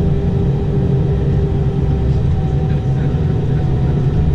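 Airbus A319 airliner's jet engines running steadily, a continuous low rumble with faint humming tones over it.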